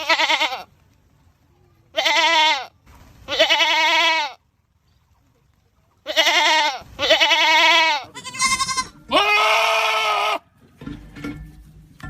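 Goats screaming: about six loud, wavering, drawn-out bleats, each half a second to a second and a half long, with a pause of over a second in the middle.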